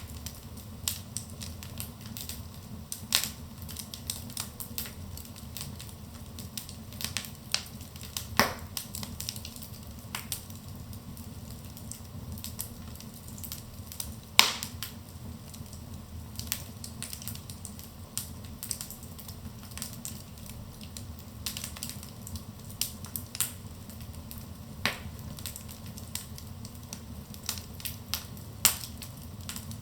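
Wood fire burning in a fireplace: irregular crackling and snapping over a low steady rumble of flames, with a few louder pops, the sharpest about halfway through.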